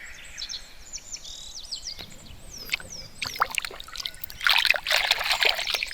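Birds chirping: short high calls and quick up-and-down whistles, with a louder, busier flurry of calls near the end.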